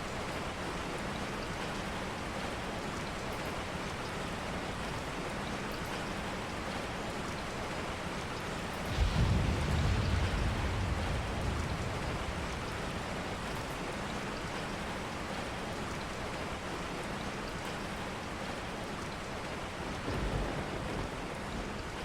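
Steady rain falling, with a low rumble of thunder about nine seconds in that fades over a couple of seconds, and a shorter, weaker rumble near the end.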